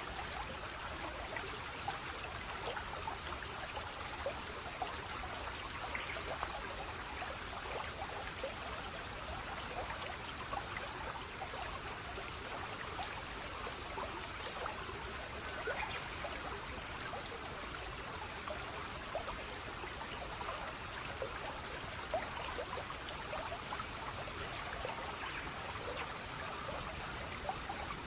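Steady running water of a small stream, trickling and splashing continuously with many small droplet splashes.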